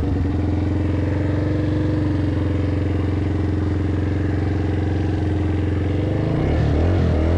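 Motorbike engine running at a steady speed, then the revs rising and falling near the end.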